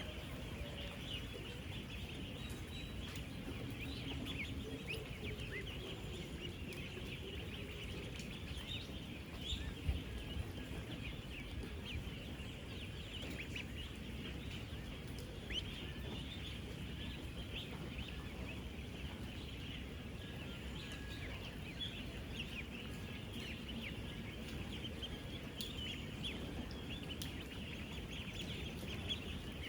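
A dense, continuous chorus of high peeping from thousands of ten-day-old ducklings, with a steady low rumble underneath. A few brief knocks come about ten seconds in and again a few seconds later.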